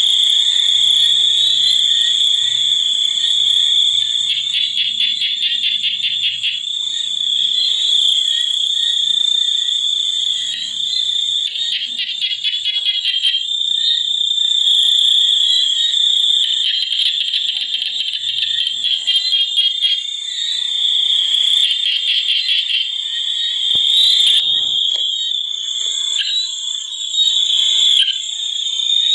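Chorus of frogs and insects: a steady high-pitched shrill with rapid pulsed trills that come and go.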